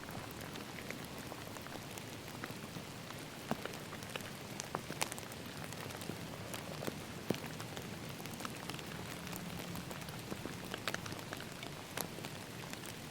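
Steady rain falling, an even hiss with many separate drops ticking sharply at irregular moments.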